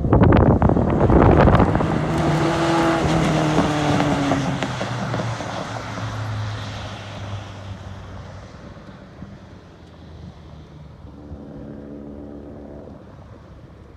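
Cars at full throttle on a runway, loudest in the first two seconds, then the engine note falls in pitch and fades into the distance. A fainter engine note returns near the end.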